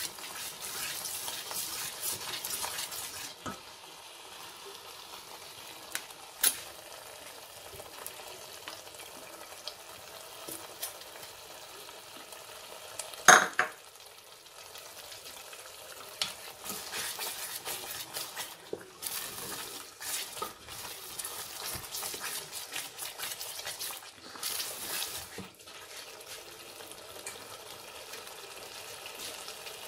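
Masala with yogurt frying in a stainless steel pot, sizzling in uneven spells as a wooden spoon stirs and scrapes it. A few sharp clicks and one loud knock a little before the middle stand out.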